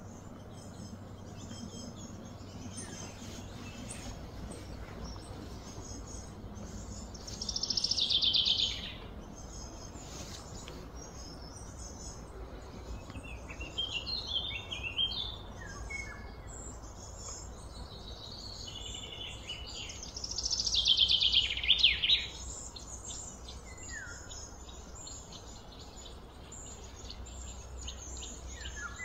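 Wild birds chirping and calling, with two louder trills that fall in pitch, about seven and about twenty seconds in, over a steady low background rumble.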